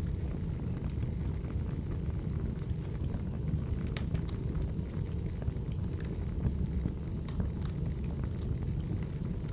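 Firewood burning: a steady low roar of the fire with scattered sharp crackles and pops, the clearest pops a little before and after the middle.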